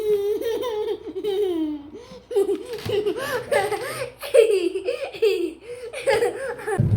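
Baby laughing in a run of short, high-pitched belly-laugh bursts. Just before the end a steady low rumble cuts in abruptly.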